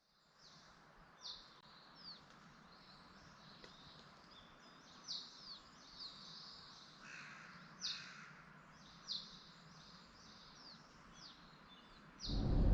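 Wild birds singing: many short, high, down-slurred notes from several birds, over a faint steady hiss. A much louder sound comes in near the end.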